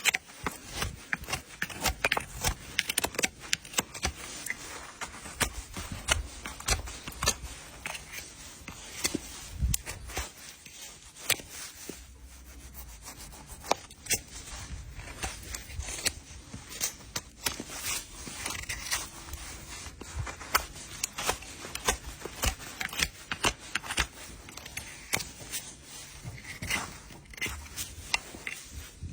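Hoof horn being pared and scraped with hand trimming tools: irregular scraping strokes mixed with sharp clicks and snips.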